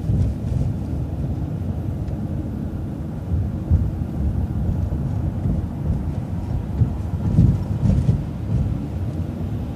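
Vehicle interior rumble while driving through town: low engine and road noise, with a few louder bumps and knocks part way through.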